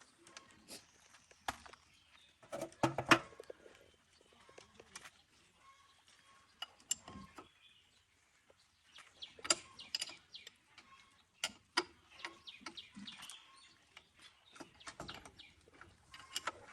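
Irregular clinks and knocks of tools on metal tractor parts, loudest in a cluster about three seconds in.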